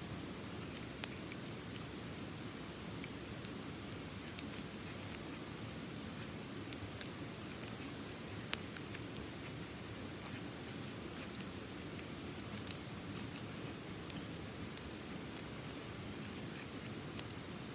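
Small wood fire burning in a mesh-colander mini fire stand, crackling with irregular pops over a steady low hiss; two sharper pops stand out, about a second in and about eight and a half seconds in.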